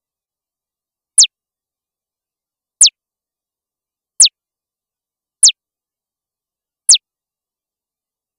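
Five short electronic chirps, each a quick falling whistle from very high to mid pitch, spaced about one and a half seconds apart with dead silence between them; the last comes about a second and a half before the end.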